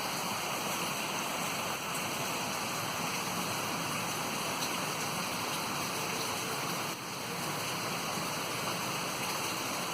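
Steady rain falling, an even hiss with a slight drop in level about seven seconds in.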